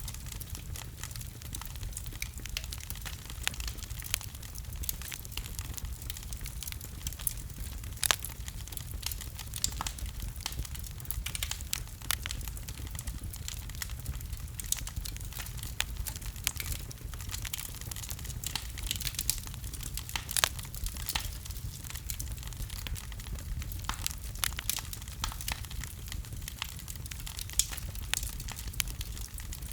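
Wood fire burning in a fireplace: irregular sharp crackles and pops over a steady low rumble of the flames, with two louder pops, about eight seconds in and about twenty seconds in.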